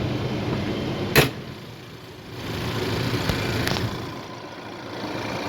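2020 Ford Ranger's 2.3-litre turbocharged four-cylinder engine idling steadily, heard in the open engine bay. A single sharp knock comes about a second in.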